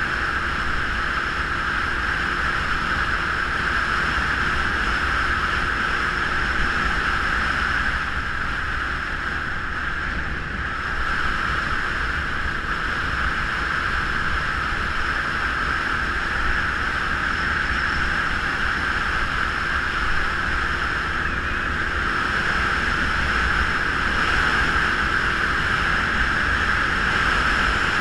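Steady rush of wind and engine noise while a Geon Scrambler 250 motorcycle is being ridden, easing briefly about ten seconds in.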